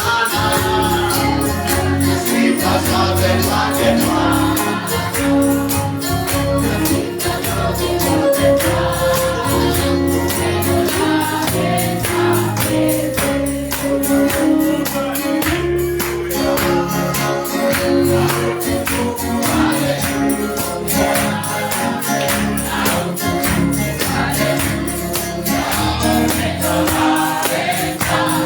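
Gospel worship music: a group singing together over a fast, steady percussion beat with tambourine.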